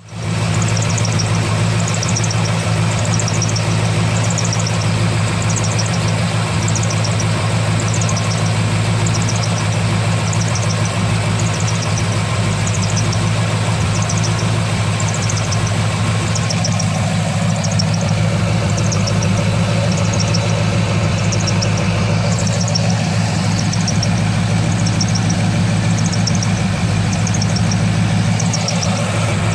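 A 2003 Corvette Z06's LS6 V8 idling steadily, with a short high-pitched squeak from the accessory drive repeating about once every second and a bit. The main belt is new and the main tensioner pulley seems fine, so the owner suspects the AC belt and idlers or the harmonic balancer.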